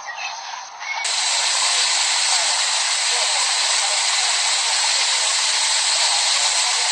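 Loud, steady hiss that cuts in abruptly about a second in and holds level.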